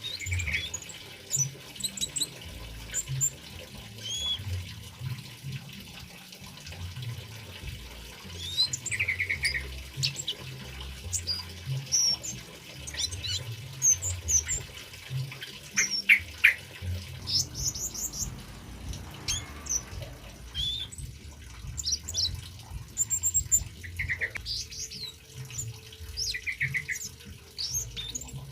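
Male orange-headed thrush (kemade) singing a run of many short, quick chirps and whistles, some rising and some falling in pitch, over trickling water.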